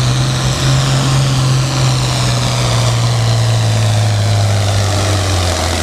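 International Harvester 966 tractor engine running hard under full load, pulling the sled. It is a loud, steady low drone whose pitch sags slowly, the engine pulling down as the sled load builds.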